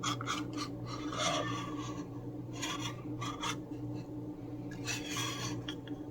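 Paper napkin rustling and rasping in short, irregular bursts, over a steady low hum.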